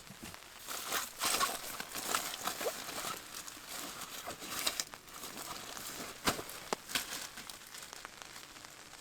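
Crinkling and rustling of the repair kit's supplies being handled, with irregular clicks and two sharper clicks about six and a half seconds in.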